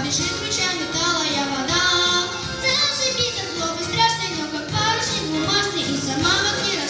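A child singing a song over instrumental accompaniment.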